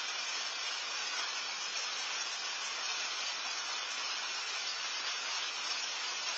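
Steady rain falling, a constant even hiss with no separate drops or knocks standing out.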